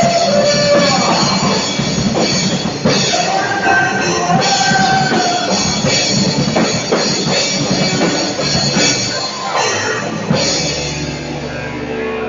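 Drum kit played along to a rock-style backing track of the worship song, with a melody and guitars over the beat. About ten seconds in the drumming thins out and the music settles into held notes.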